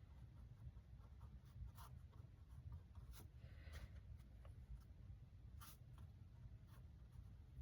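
Faint, scattered strokes of a paintbrush dabbing and brushing white acrylic paint onto canvas, a few short scratchy strokes every second or two, over a low steady room hum.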